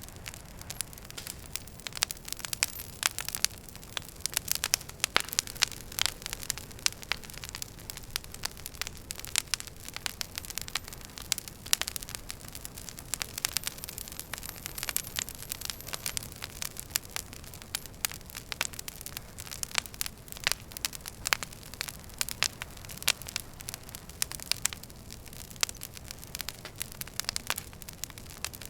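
Wood fire burning in a fireplace, logs crackling and popping with many sharp, irregular snaps over a soft steady hiss.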